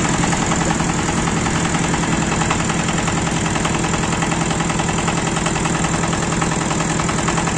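Engine of a homemade mini tractor idling steadily, with a rapid, even firing beat.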